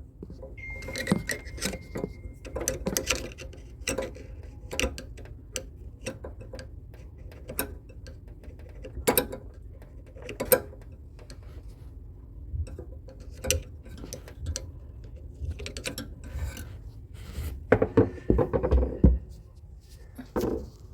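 Irregular clinks and knocks of metal tools and parts being handled while taking apart a split air conditioner's indoor unit, with a cluster of louder knocks near the end.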